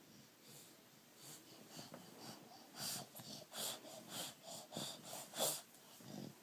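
A small child's faint, breathy pretend snoring: a series of short wheezy snorts and puffs of breath, coming quicker and a little louder from about three seconds in.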